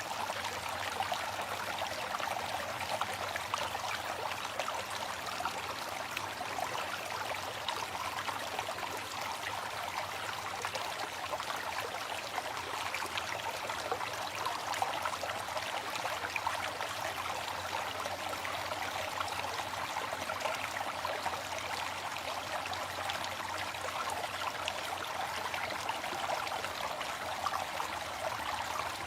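Steady rush of a waterfall: falling water splashing continuously, with no rise or fall.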